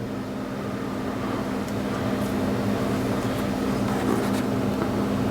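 A steady mechanical hum, like a fan or motor running, with two steady low tones that slowly grows louder. A few faint light clicks sound over it.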